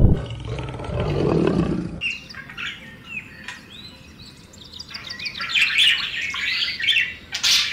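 A low rumbling hum for about two seconds, which cuts off. Then high, squeaky chirps with quick pitch glides, typical of Eurasian spoonbill chicks begging at the nest while being fed. The chirps get louder and busier about five seconds in.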